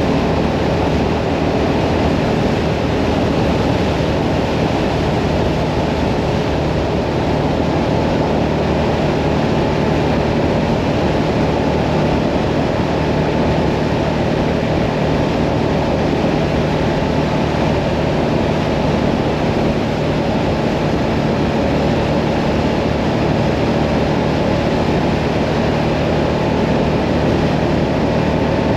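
Hyosung Mirage 650 V-twin motorcycle engine running at a steady cruising speed, mixed with wind and road noise.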